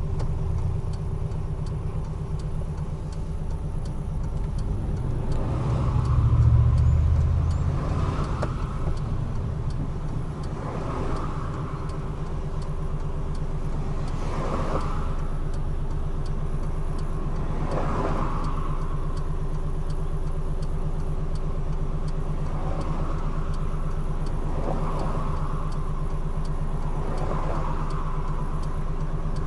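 Large truck's diesel engine droning steadily while cruising on an expressway, with road noise and a brief whoosh every few seconds; the engine swells louder for a moment about six seconds in.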